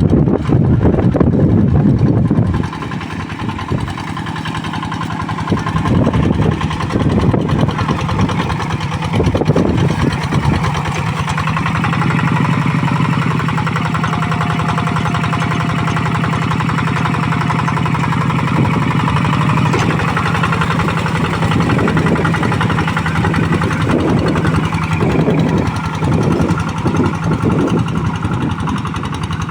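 Single-cylinder diesel engine of a two-wheel hand tractor running under load while ploughing soft, deep paddy mud, with a knocking diesel beat. It is loudest for the first couple of seconds, then drops and its level rises and falls as the load changes.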